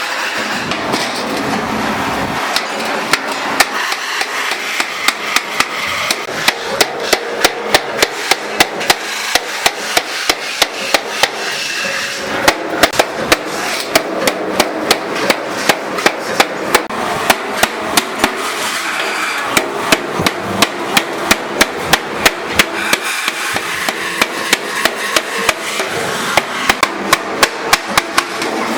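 Hammer striking metal in a fast, steady rhythm, about two to three blows a second, over steady workshop noise; the hammering starts about two seconds in and breaks off briefly a couple of times.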